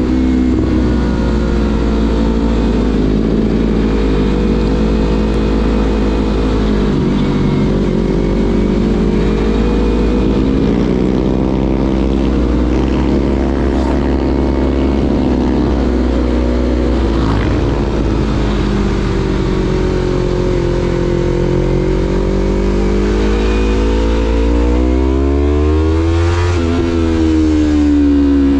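2016 Yamaha MT-25's 249 cc parallel-twin engine through a Shadux Viper Pro Race aftermarket exhaust, running on the road with its pitch rising and falling as the throttle opens and closes. Near the end the revs climb steeply, then drop sharply at a gearshift and pick up again.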